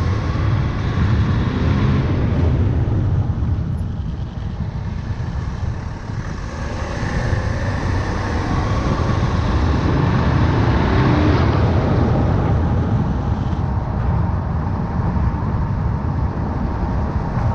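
Tyre and road rumble with wind noise from a BMW 335d's front wheel while driving, steady but swelling and easing in loudness.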